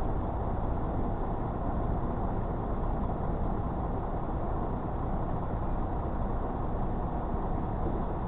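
Steady low vehicle rumble, even throughout with no distinct knocks or other events.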